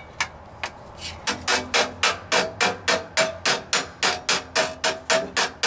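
Hammer striking sheet steel braced in a vise over a block: a few light taps, then from about a second in a steady run of sharp blows at about four a second, each with a short metallic ring. The blows are tapping a stiffening bead into a floor pan patch by hand.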